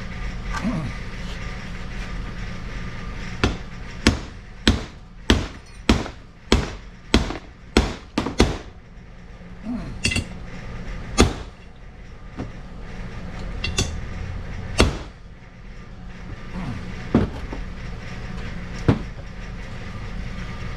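Hammer blows driving a new tail shaft bushing into a Muncie four-speed transmission's extension housing: a quick run of about ten sharp metal strikes, then a handful of single strikes spaced a second or two apart. A steady low hum runs underneath.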